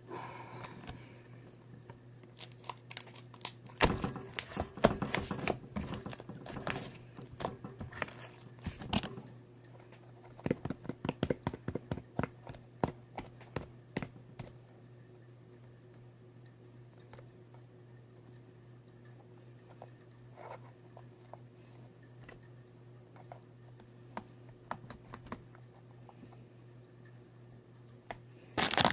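Slime being squished and worked by hand, giving bursts of quick sticky clicks and crackles for about the first half, then only a few scattered clicks over a steady low hum.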